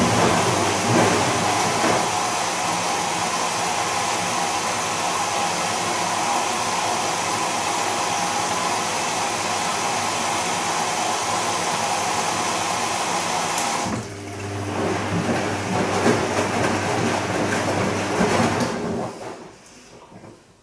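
Bosch Serie 2 Vario Perfect washing machine running its silk program with a steady whir. About two-thirds of the way through the sound changes abruptly to a lower hum, which dies away near the end.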